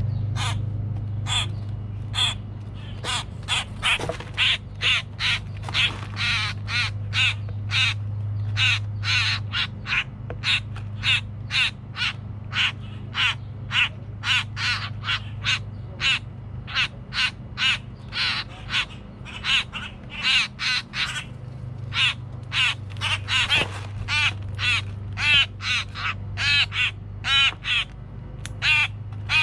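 Young grackles begging to be fed: short, harsh, rasping calls repeated about twice a second, over a steady low hum.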